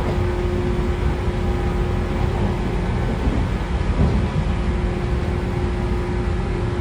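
Running sound of a JR West 113 series 5700-subseries electric train, heard in motor car MoHa 113-5716 with MT54 DC traction motors on DT21B bogies: a steady rumble of wheels on rail with a constant hum at one pitch as the train runs at an even speed.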